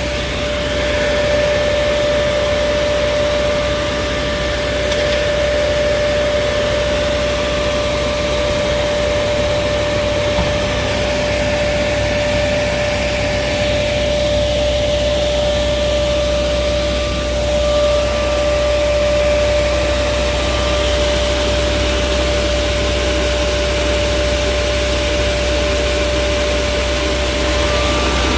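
Pneumatic grain vacuum conveyor running steadily: a loud even rush of air with a steady whining tone and a low engine drone underneath.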